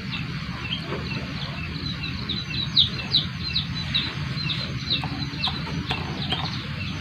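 Small songbirds chirping: a quick, irregular run of short, high, downward-sliding chirps over a steady low background rumble.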